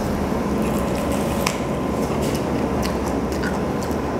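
Crispy fried chicken being bitten into and chewed, heard as a few faint crunching clicks over steady background noise.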